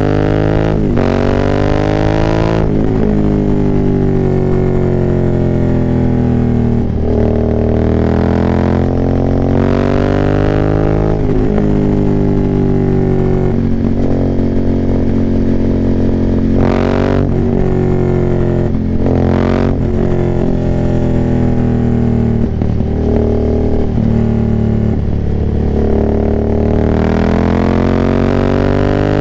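Aprilia Dorsoduro 900's 90° V-twin through a full, decatted Arrow exhaust with no dB killers, revving hard. The engine note climbs in pitch through the gears with brief breaks at each shift, several times over, and falls away when the throttle is closed between pulls.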